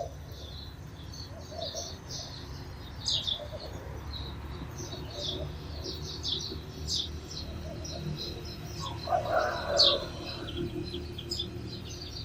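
Sparrows chirping: many short, high chirps in quick, irregular succession. About nine seconds in, a lower, louder call from another bird joins them briefly.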